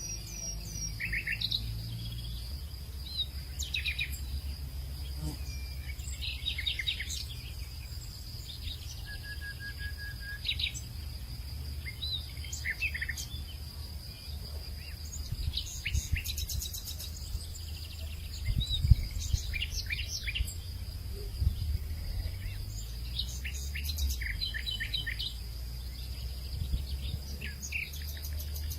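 Hillside nature ambience: several birds chirping and trilling on and off over a steady high-pitched insect drone, with a low rumble underneath.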